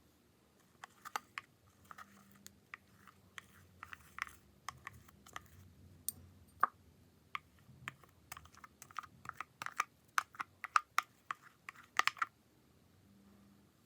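An irregular run of light clicks and taps, growing quicker and louder toward the end and stopping about twelve seconds in.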